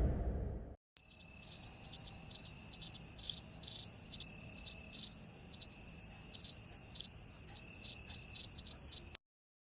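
Stock cricket-chirping sound effect: a steady high chirping trill with louder pulses about twice a second. It starts about a second in, after the tail of a low whoosh fades out, and cuts off suddenly near the end.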